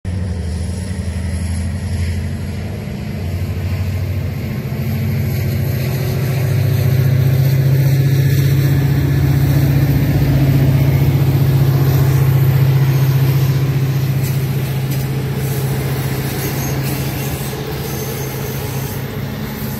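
Passenger train with double-deck coaches passing close by, a steady low hum that swells to its loudest about midway and then eases off.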